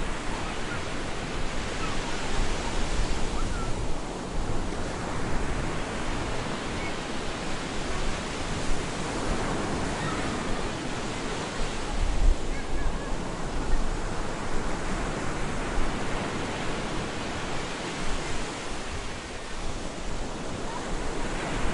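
Stormy surf breaking on a beach: a continuous rush of water that surges and eases every several seconds, with a deep rumble under it.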